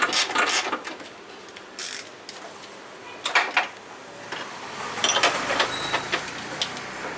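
Quick ratchet-like mechanical clicking for under a second, then scattered sharp metallic clicks and knocks.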